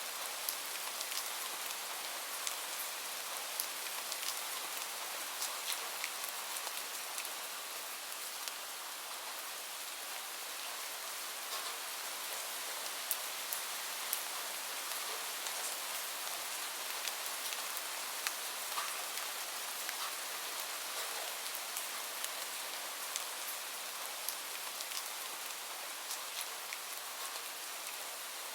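Steady rain falling on a surface, an even hiss with many individual drops ticking sharply throughout.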